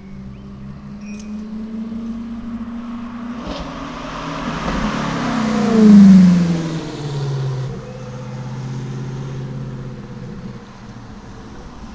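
Ferrari F430's V8 with a de-catted race exhaust driving past. It builds to a loud peak about six seconds in, drops in pitch as it goes by, then fades away.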